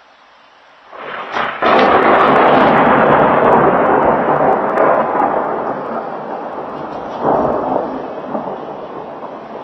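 A thunderclap: a sudden loud crack about a second and a half in, then a long rolling rumble that slowly fades, swelling again briefly about seven seconds in.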